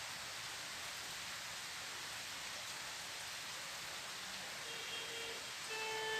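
Heavy rain falling steadily, a continuous even hiss. Near the end a few short, steady pitched notes with overtones sound over it.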